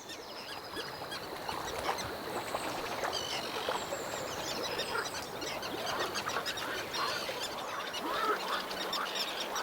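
A dense chorus of many short, overlapping quacking animal calls.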